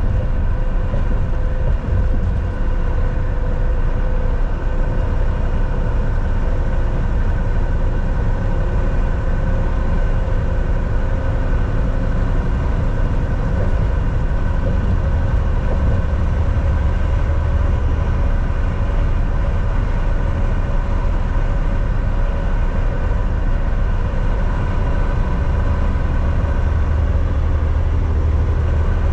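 Volvo VNL 760 semi-truck cruising on the highway, heard from inside the cab: a steady engine drone over road and tyre rumble.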